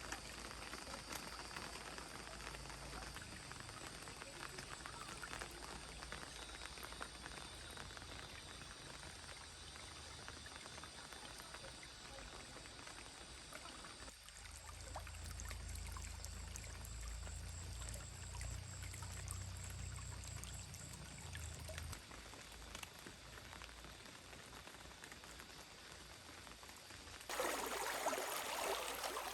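Faint, steady sound of running water, trickling and pouring, that turns abruptly much louder about two seconds before the end.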